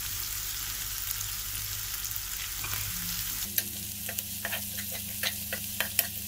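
Chopped spring onion greens, coriander leaves and green chillies sizzling in hot oil in a non-stick kadai. From about halfway a slotted steel spatula stirs them, scraping and tapping the pan about three times a second.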